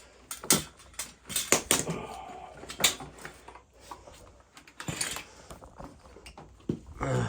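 Metal hand tools clinking and clanking against oil burner parts as wrenches are worked during a tune-up, a scatter of sharp separate knocks.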